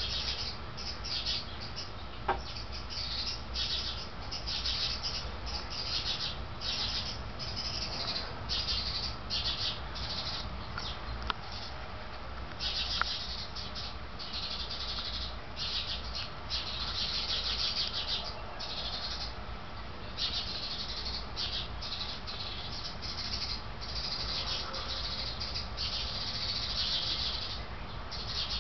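Hummingbirds and another small bird species giving alarm calls in a racket of rapid, high-pitched bursts, one after another: birds mobbing a cat that has caught a fledgling.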